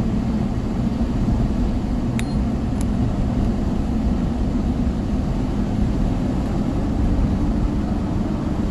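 Steady road and engine rumble inside a moving vehicle's cabin, with two faint clicks a little after two seconds in.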